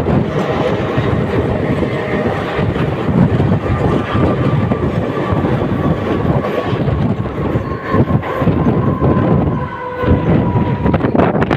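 Mumbai suburban EMU local train running, a loud steady rumble with a faint thin whine that sags slowly in pitch through most of it.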